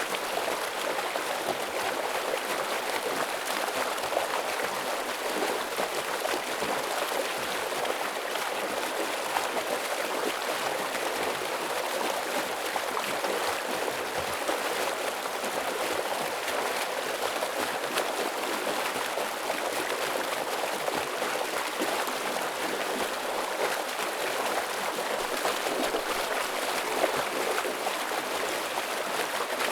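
Heavy stream water flowing steadily: a dense, even rush with little deep rumble.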